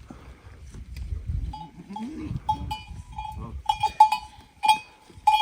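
A small metal bell on livestock clanking irregularly, its short rings coming thicker after the first second or two as the animal moves.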